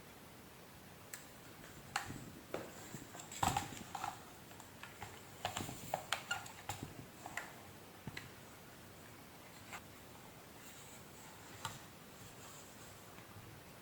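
Light clicks, taps and knocks of plastic vacuum-cleaner housing parts being handled, coming quickly for a few seconds and then only now and then.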